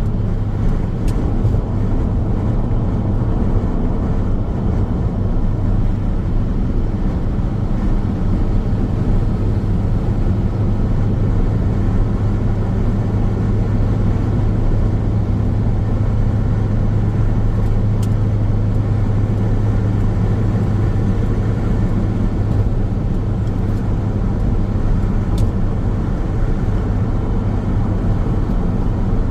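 A car driving steadily along a road: a constant low drone of tyre and engine noise with no changes in speed, and a few faint ticks.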